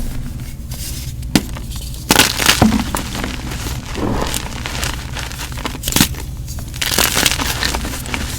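Gym chalk (magnesium carbonate) being crushed and crumbled, giving irregular crunches with a few sharp snaps among softer crumbling.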